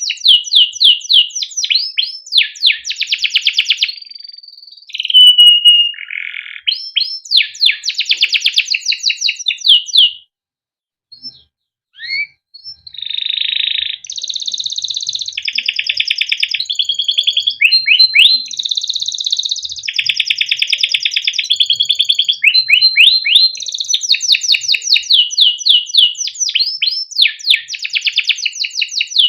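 A male domestic canary singing a long song of rapid repeated chirps and rolling trills, phrase after phrase, with a short pause about ten seconds in.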